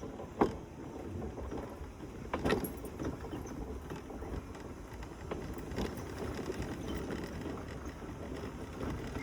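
Mobility scooter driving along a woodland path: a steady rumble from its tyres and motor, with a few sharp knocks, one about half a second in, others around two and a half and six seconds.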